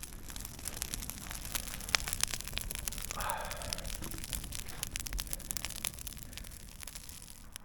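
Open campfire of garden branches crackling, with many sharp, irregular pops and snaps.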